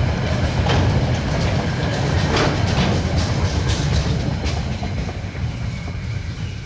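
Tail end of a loaded container freight train rolling past: wagon wheels rumbling and clicking on the rails, fading away over the last couple of seconds.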